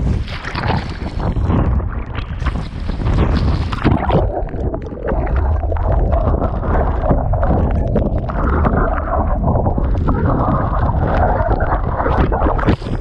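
Strong wind blasting the microphone over rushing, splashing water, with frequent short knocks and crackles of spray and chop against the board.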